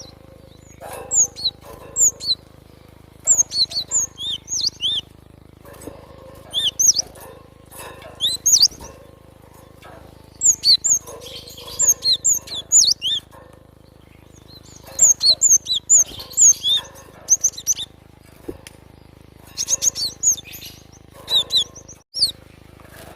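Cinereous tit (glatik batu) calling: bursts of quick, sharp, high-pitched chirps, several notes in each burst, repeated every few seconds with short pauses between.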